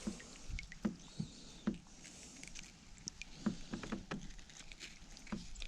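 Irregular light knocks and taps on a kayak while a just-caught white bass is handled and unhooked by hand.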